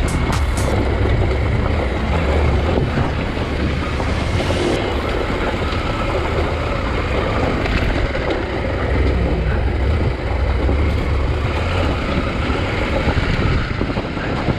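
KTM 890 Adventure R parallel-twin engine running steadily as the bike is ridden, with wind buffeting the microphone.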